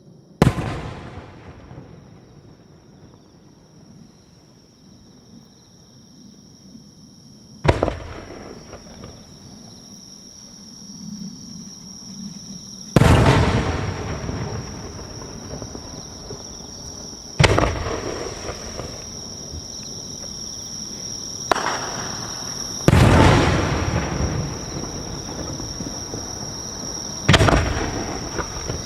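Large No. 5 aerial firework shells bursting, about seven loud booms spaced several seconds apart. Each boom trails off in a long rolling echo.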